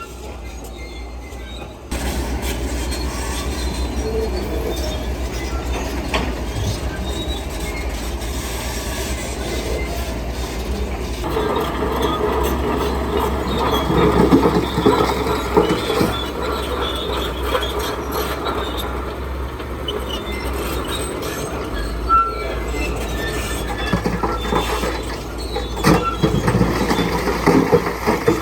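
Heavy earthmoving machinery at work: a diesel engine running under load with metallic clanking and squealing. The sound gets suddenly louder about two seconds in and busier again near the middle.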